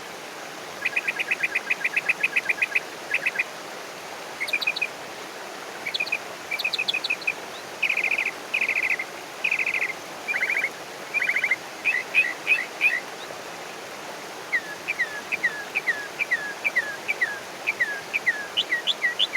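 Songbirds singing: rapid trills of quickly repeated notes through the first half, then a regular series of short downward-sliding whistled notes near the end, over a steady background hiss.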